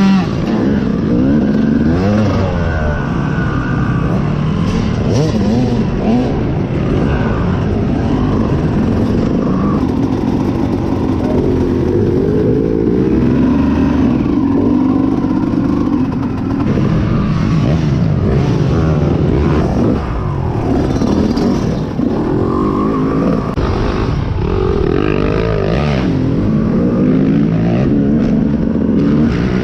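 Dirt bike engine racing off-road, its pitch rising and falling over and over as the rider opens and closes the throttle through gear changes, heard from an on-board action camera with rattle and wind noise.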